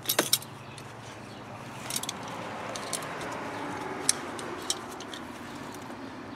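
Sprinkler pipe being cut, with a few sharp clicks and snaps at the start and single clicks later, over a steady hiss that swells about two seconds in and slowly fades.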